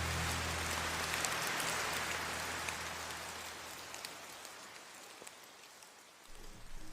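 Rain falling on a surface: a steady hiss with scattered drop ticks that slowly fades quieter over several seconds. The last low notes of a song die away in the first second or so.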